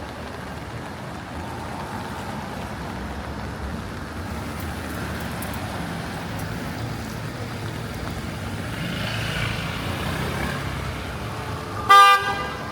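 City traffic passing on a rain-wet street: a steady hiss of tyres and engines that swells a little. Near the end a car horn gives one short, loud honk.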